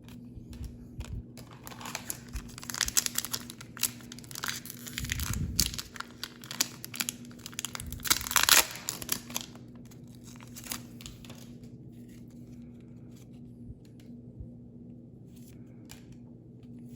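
Foil wrapper of a Pokémon booster pack being torn open and crinkled, a dense crackle that peaks about eight seconds in, then a few light clicks. A faint low steady hum sits underneath.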